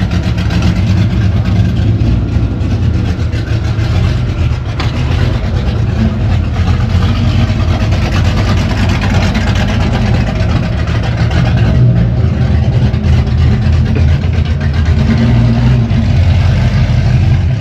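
A vehicle engine running steadily close by, a loud low rumble that holds level throughout.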